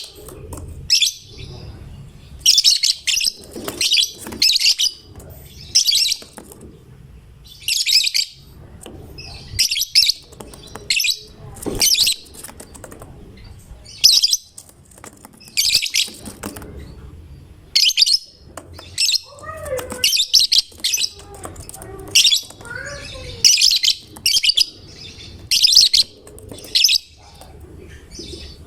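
Lovebird singing in short bursts of rapid, high-pitched chirping, one burst every second or two.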